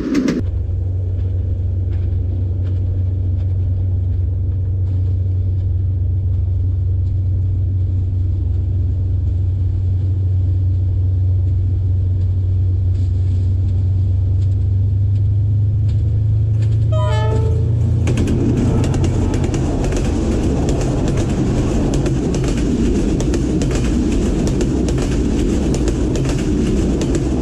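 Diesel-hauled passenger train approaching with a steady low engine drone, giving a short horn blast about seventeen seconds in, then passing close by with a louder, dense noise of wheels and carriages on the rails.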